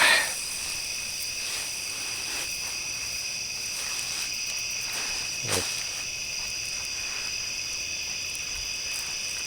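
Steady high-pitched chorus of crickets and other night insects, with one brief falling sound about five and a half seconds in.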